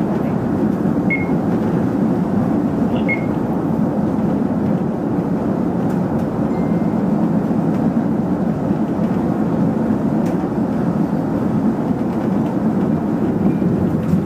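Manila LRT Line 1 light-rail train running at speed, heard from inside the driver's cab: a steady rumble of wheels on rail and traction drive, with two brief faint high squeaks in the first few seconds.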